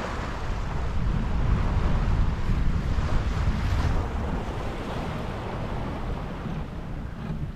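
Wind buffeting the microphone over the rushing wash of sea water, aboard a sailing yacht under way.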